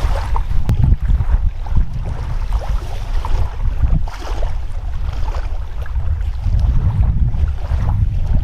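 Wind buffeting the microphone with a constant heavy low rumble, with surf washing on the shore behind it.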